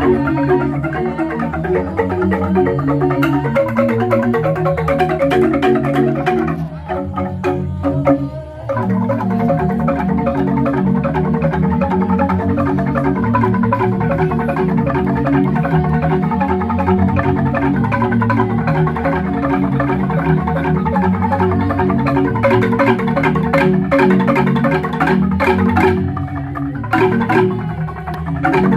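Balinese jegog bamboo gamelan playing a tabuh petegak instrumental: fast interlocking bamboo xylophone strikes over deep bass notes. The texture thins briefly about seven seconds in, then the full ensemble comes back in.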